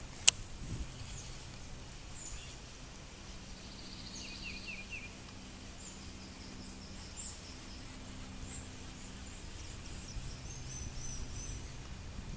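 Birds chirping and trilling, with short high chirps scattered through and a buzzy trill about four seconds in, over a faint steady background. A single sharp click sounds just after the start.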